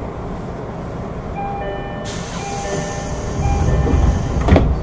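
Interior running noise of a JR 205 series 600 electric train car, a steady low rumble. About two seconds in a hiss joins it, and near the end the rumble swells and there is a sharp knock. A few faint steady tones at several pitches sound briefly through the middle.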